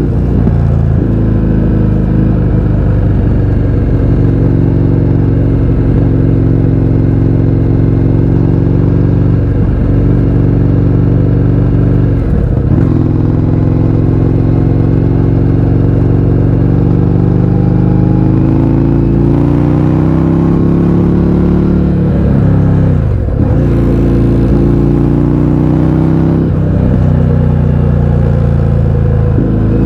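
Indian FTR 1200's V-twin running through an Akrapovič exhaust with the baffles removed, under way on the road. The engine note is steady, with several short drops in pitch that pick straight back up, and a slow climb in pitch about twenty seconds in.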